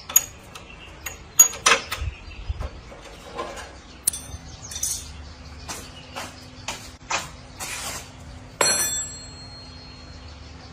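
Irregular metallic clicks, knocks and scrapes of work on old bicycle parts, with one louder clank near the end that rings on briefly like struck metal.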